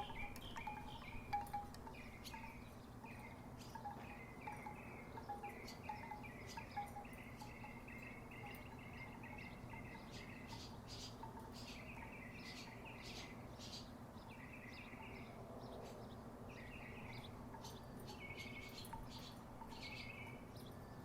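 Wooden tiki wind chimes knocking irregularly in the breeze with hollow, short, clacking notes. The knocks come thick and fast for the first several seconds, then thin out to scattered clusters. A steady low hum runs underneath.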